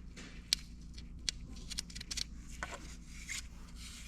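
A few light metallic clicks and short scrapes from engine parts being handled on a workbench, with a sharp tick about half a second in and another just over a second in.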